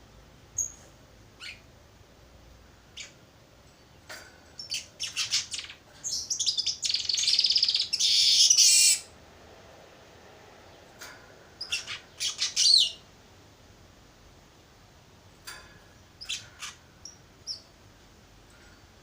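Young weaver bird practising its song: scattered short chirps, a loud rapid chattering phrase of about three seconds, a shorter run of notes a few seconds later, then a few more single chirps.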